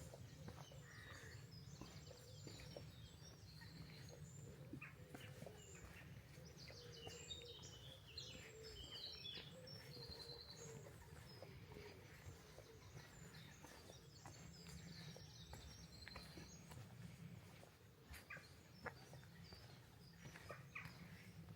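Faint birdsong: several small birds chirping and twittering in short high notes, busiest in the middle, over a low steady rumble.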